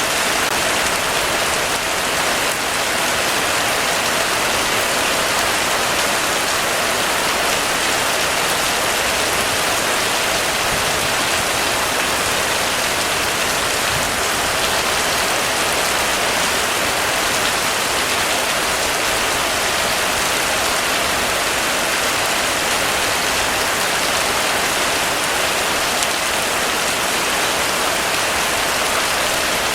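Heavy, steady rain falling on a surface, an even hiss with no let-up or thunder.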